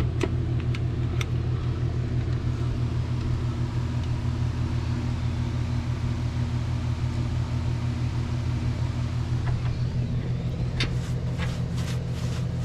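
Steady low rumble of an idling vehicle engine, with a constant hum above it and a few sharp ticks near the end.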